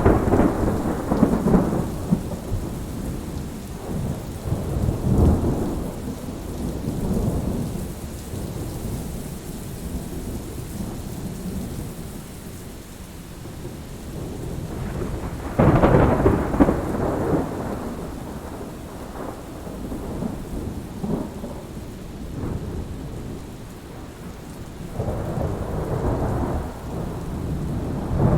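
Thunderstorm: steady rain with thunder rumbling several times, the loudest peals at the start and about halfway through, and another rolling up near the end.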